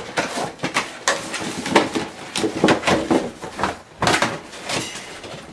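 Coyote pawing and nosing at a box with a rat inside: a run of irregular knocks, scrapes and rustles.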